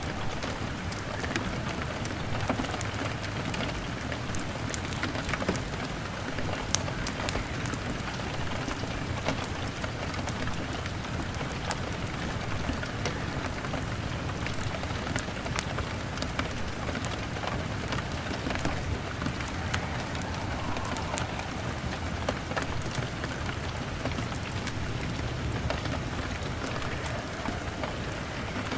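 Steady rain pattering on a window pane, mixed with a crackling fire that gives many small sharp pops throughout, over a low steady rumble.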